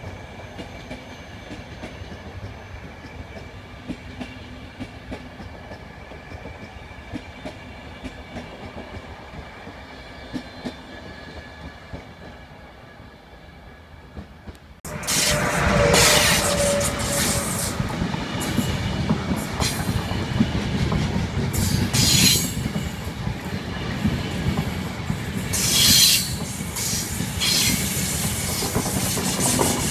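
Passenger train rolling by, first faint and distant. About halfway in the sound jumps to a loud close pass of Trenitalia night-train coaches, with clickety-clack over the rail joints and several brief high wheel squeals.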